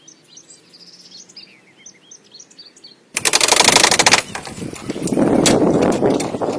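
Birds chirping faintly, then about three seconds in a loud, rapid rattling starts suddenly and gives way after about a second to a rough, uneven rasp.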